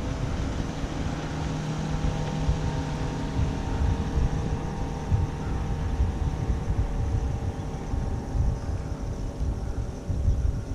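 Wind buffeting the microphone, with the steady drone of a distant motor underneath that fades toward the end.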